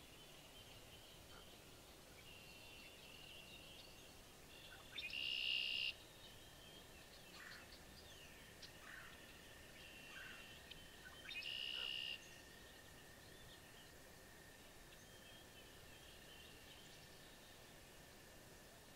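Wild birds calling: faint high chirps and short falling notes throughout, with two louder buzzy calls about a second long, one about five seconds in and one about eleven seconds in.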